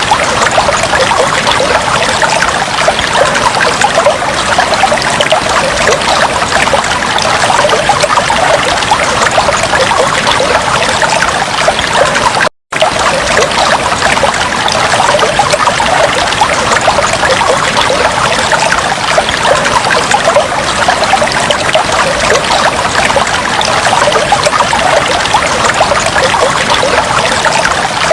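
Aquarium water trickling and bubbling steadily, a dense watery patter. It cuts out completely for a split second about twelve seconds in, then resumes unchanged.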